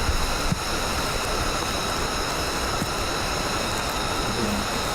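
Steady rushing of a mountain stream, with a single light click about half a second in.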